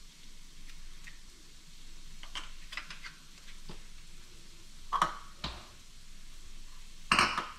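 Diced onion and garlic sizzling softly in hot oil in a frying pan. A few light knocks and clatters of kitchen items come over it, the loudest a short clatter near the end.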